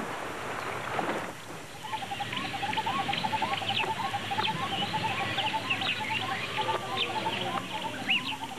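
Several birds calling at once: quick repeated chirps and short arched whistles overlapping densely from about two seconds in, over a steady natural background hiss.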